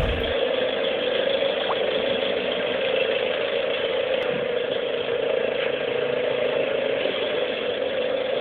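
Vehicle engine idling, an even drone that holds one pitch.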